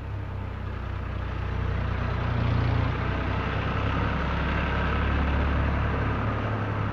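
International 484 tractor's diesel engine running steadily under load, growing louder about two seconds in as it works close by.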